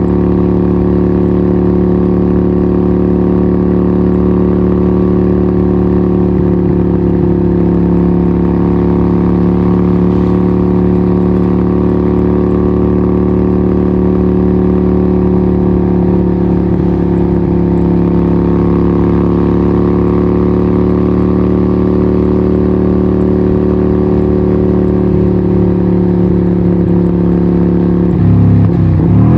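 Harley-Davidson 1200 Nightster's 1200cc Evolution V-twin running through a Vance & Hines exhaust, holding a steady engine speed. Near the end the pitch changes abruptly and it briefly gets louder.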